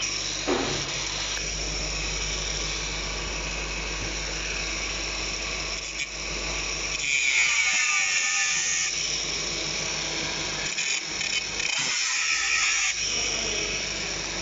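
Small handheld power tool running continuously with a high, hissing whine as it cuts into an electric hot plate's heating element, the sound briefly easing a few times as the cut is worked.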